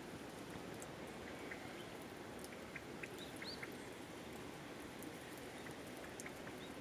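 Wood fire crackling, scattered small sharp pops over a steady low rush of flame.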